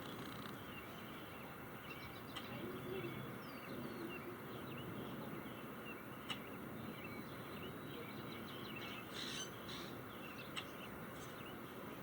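Faint, scattered bird chirps over a steady outdoor background hiss, with a couple of brief clicks partway through.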